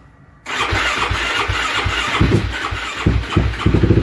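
Suzuki LT-R450 quad's single-cylinder engine being started after sitting unused in the cold: it cranks over with uneven pulses from about half a second in, then catches near the end and settles into a steady run.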